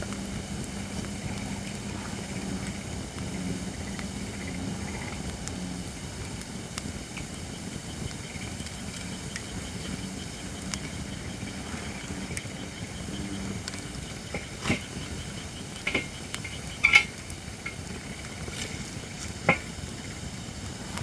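Holly firewood burning in a campfire: a steady hiss and soft crackle, broken about two-thirds of the way through by several sharp, loud pops and snaps, the loudest near the end.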